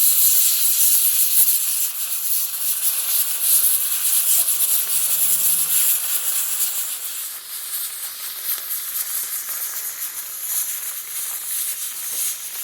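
Steady rain falling, an even hiss that grows a little softer in the second half.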